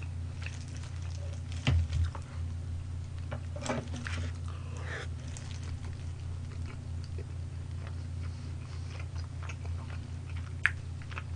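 Crispy fried chicken being bitten and chewed close to the microphone, with a few crunches, the loudest about two seconds in, and a sharp click near the end.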